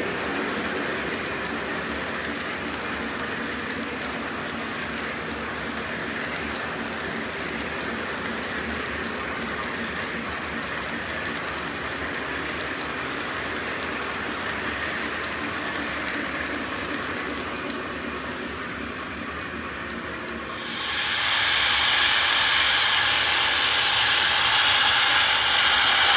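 O gauge model train running along its track with a steady rumble. About twenty seconds in, a louder hiss starts and keeps going.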